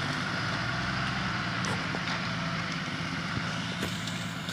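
Truck engine running steadily at an even pitch.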